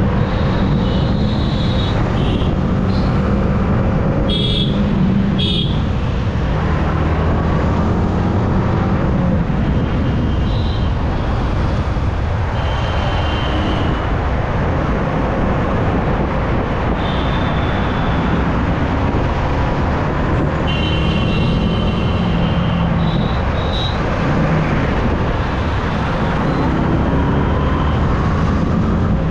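Yamaha R15M motorcycle ridden at steady speed on a highway: its single-cylinder engine runs with constant wind rush over the rider's microphone, and short high tones come and go.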